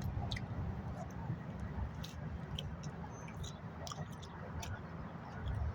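Close chewing of a steak: scattered wet clicks and smacks over a low steady rumble.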